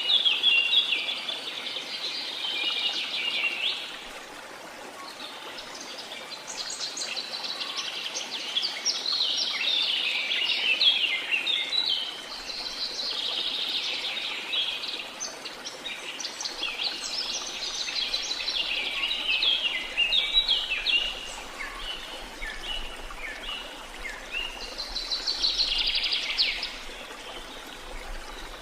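Rainforest birds singing in dense bouts of rapid, high chirps that swell and fade every few seconds, over a faint steady hiss of water.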